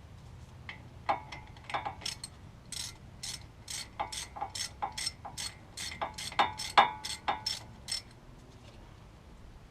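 Hand ratchet wrench clicking in quick strokes, roughly two to three clicks a second, working a brake caliper bracket bolt; the clicking stops about eight seconds in.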